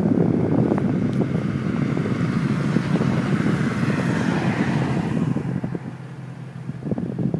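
Exhaust of a Jeep Grand Cherokee's 4.7-litre V8, fitted with a Magnaflow muffler and an exhaust cutout, running with a deep, uneven rumble. It dies down somewhat about six seconds in, then picks up again.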